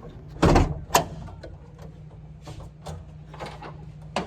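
Hood of a 1999 Jeep Cherokee XJ being popped open: a loud clunk about half a second in and a sharp click just after, then a few softer knocks and another sharp click near the end.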